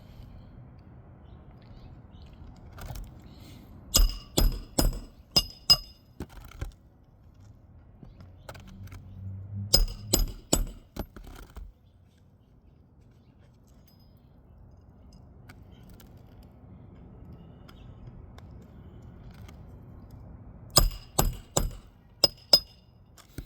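16-ounce hammer driving roofing nails through an asphalt shingle: three quick runs of about five sharp, ringing blows each, one run per nail, with pauses between.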